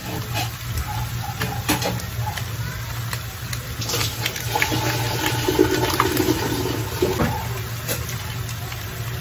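Pork pieces sizzling in oil in a frying pan, a steady hiss over a low hum, with a few sharp crinkles as a sachet of Worcestershire sauce is torn and squeezed into the pan.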